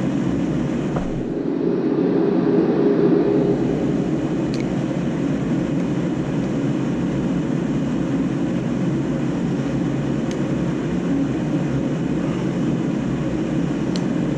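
A steady, even rumble of background noise throughout, with a few faint clicks now and then.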